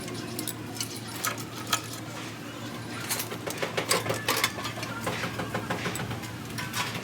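Metal tools and engine parts clinking and tapping against each other in irregular strokes, over a steady low hum.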